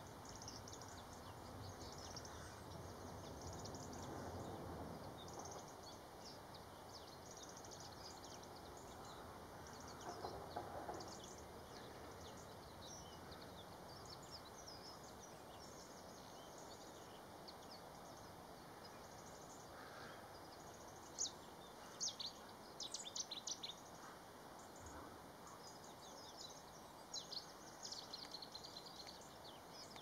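Faint outdoor ambience with scattered high bird chirps throughout. Short clusters of louder, sharper chirps come about two-thirds of the way through and again near the end.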